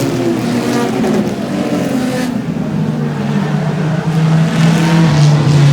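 Race car engines running at speed on a racetrack, the sound fading in the middle and building again near the end as the cars come around.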